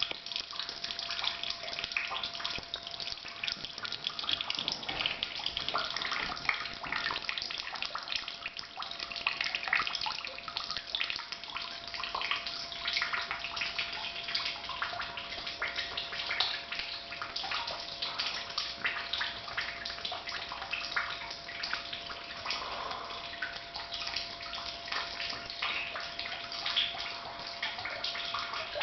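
Rainwater leaking into a house, splashing and dripping in a dense, continuous patter, with a faint steady tone underneath.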